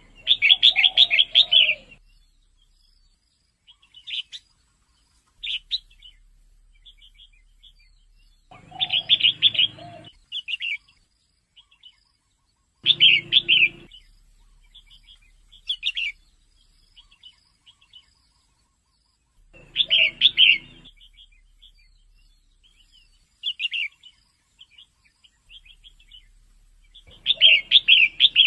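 Female red-whiskered bulbul calling: loud bursts of rapid chirps every several seconds, with short single chirps between them.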